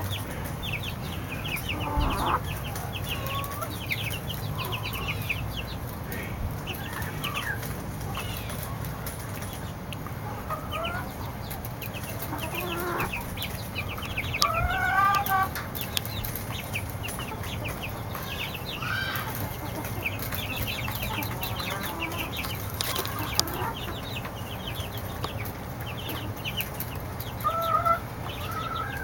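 Baby chicks peeping: a constant stream of short, high, falling cheeps, with a few louder, lower calls about halfway through and again near the end. A steady low hum runs underneath.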